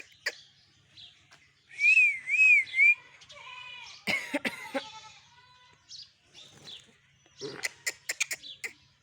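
Pet mynas calling and chattering. A loud warbling whistle with three rising-and-falling swoops comes about two seconds in, followed by harsh rasping calls and a run of sharp clicks and short chirps near the end.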